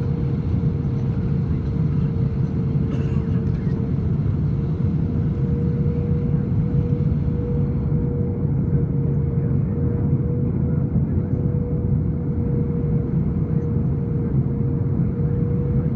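Steady engine and airflow rumble inside an airliner's cabin during descent, with a constant hum riding over the low roar.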